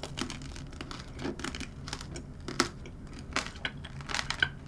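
Close-miked crunching of tomato tanghulu: the hard candied sugar shell around cherry tomatoes cracks between the teeth in irregular sharp crackles while it is chewed.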